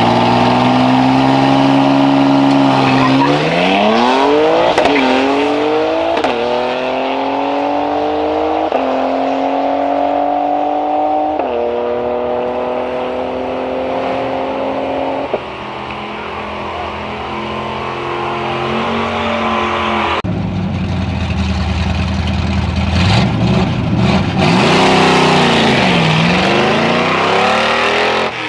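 Drag-racing car accelerating hard down the strip. Its engine pitch climbs and drops back at each of several gear changes, then cuts off about fifteen seconds in. Near the end another car engine revs down and up.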